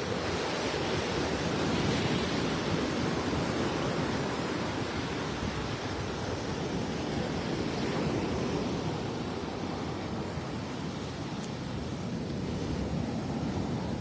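Rough Gulf of Mexico surf breaking and washing up the beach: a steady rushing noise that swells and eases.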